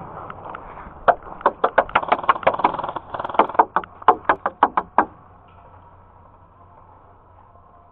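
Airsoft guns firing a quick string of sharp snapping shots, about four to five a second, for roughly four seconds, then stopping.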